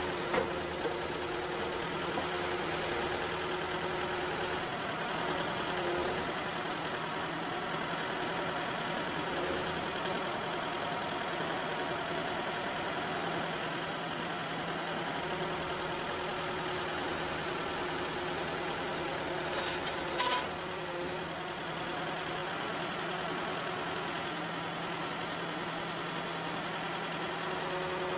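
Backhoe's diesel engine running steadily while the bucket drags wet sawdust out from under a sawmill edger, with a few short clanks near the start and about 20 seconds in.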